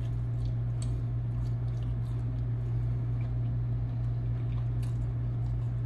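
A person chewing fried chicken, with faint scattered wet mouth clicks over a steady low hum.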